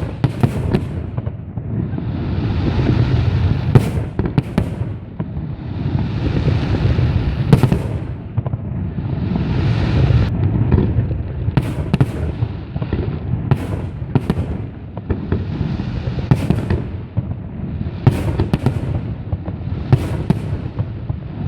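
Fireworks display: shells bursting with sharp bangs every couple of seconds, often in pairs, over a rushing, rumbling noise that swells and fades about every four seconds.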